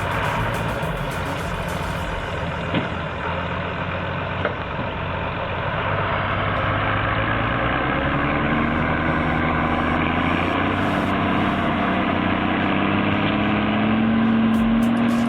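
Heavy diesel engine running steadily. In the second half a tone rises slowly in pitch as it works harder. Two short knocks come about three and four and a half seconds in.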